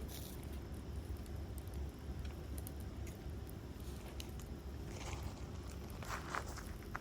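Campfire wood crackling with scattered small pops, over a steady low rumble. A denser, louder run of crackling comes about five seconds in.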